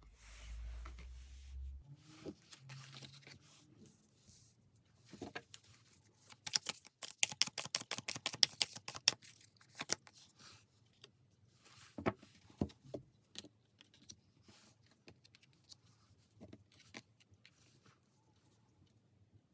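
Tarot cards being handled and shuffled: scattered clicks and papery rustles, with a quick run of rapid card snaps in the middle.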